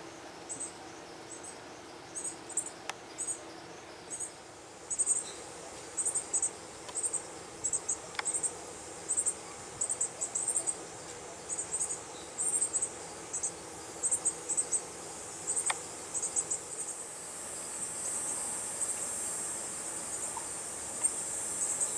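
Insects chirping: short, very high chirps in quick clusters of two to four, repeating about every half second. A steady high buzz of more insects swells in over the last few seconds.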